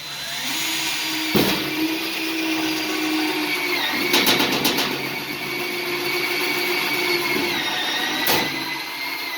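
Power drill driving a screw, its motor whining steadily with the pitch sagging under load twice, a few sharp clicks along the way, then cutting off suddenly at the end.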